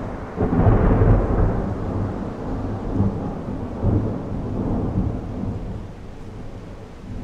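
Hailstorm: heavy rain and hail coming down with a deep, uneven rumble, easing after about five seconds.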